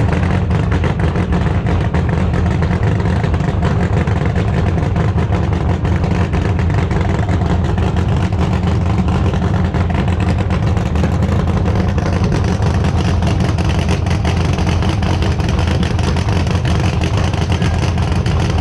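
A car engine running steadily close by, with a deep, even rumble.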